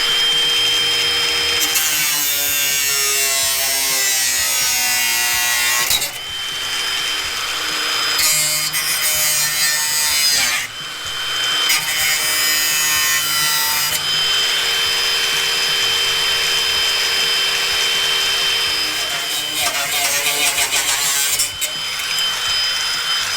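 Power tool, most likely an angle grinder, working on the rusty steel of a car's lower front sill section. It runs as a loud, continuous whine over grinding noise, with short dips in several places where the tool eases off the metal.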